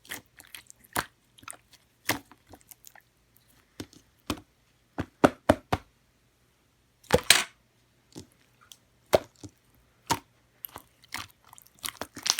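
Close-up eating sounds from lemon pudding: irregular sharp clicks and short chewing noises, a few louder clusters about five and seven seconds in.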